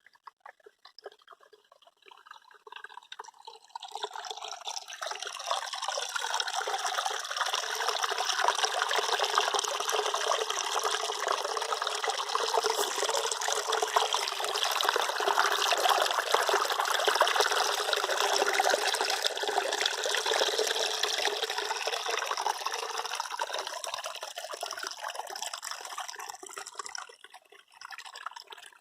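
Flowing water: a few faint drips at first, then a steady rush of water that builds about four seconds in, holds, and tapers off near the end.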